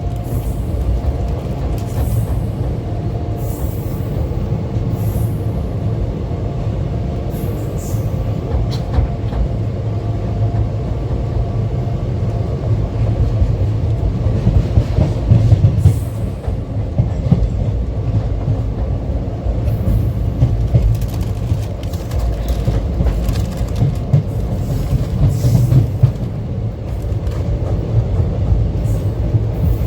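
Passenger train running on the rails: a steady, heavy low rumble with scattered clicks and rattles of the wheels over the track.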